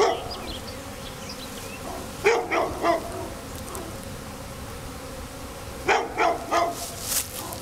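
A dog barking in two short runs of three or four barks, over the steady buzz of a honey bee swarm.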